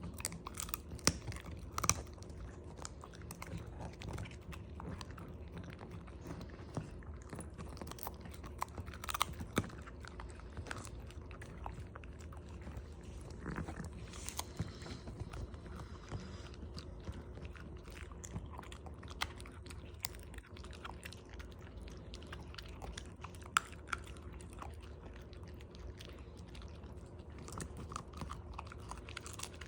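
A dog chewing herring: an irregular run of sharp chewing clicks and bites.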